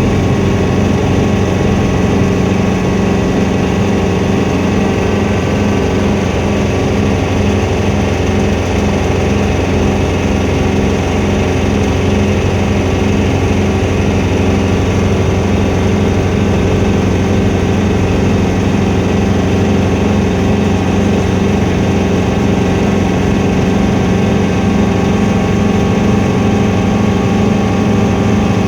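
Helicopter engine and rotor running steadily, a constant loud drone with an unchanging low hum.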